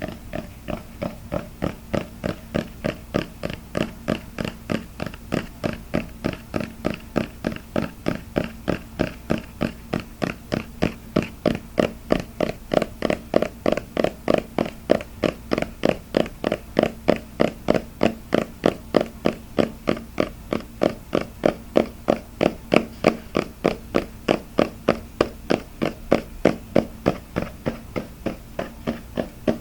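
Fast, steady tapping, about three taps a second, keeping an even rhythm throughout and growing a little louder toward the middle, over a faint steady hum.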